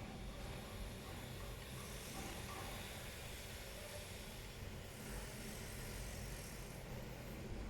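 Faint steady hiss over a low rumble, with no distinct knocks or clicks.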